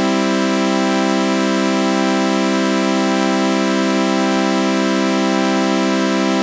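Synthesized chord of sawtooth waves with a flanger effect, held as one steady, unchanging drone, with a slow faint wavering in some of the upper tones.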